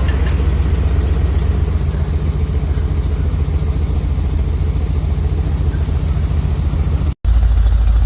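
1979 Corvette's 350 small-block V8 idling steadily, a deep even rumble: warmed up and holding idle after years of sitting. The sound cuts out for an instant about seven seconds in, then carries on.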